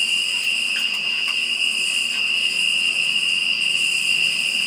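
Insects, most likely crickets, singing together in one unbroken high-pitched chorus, with fainter higher-pitched layers above it.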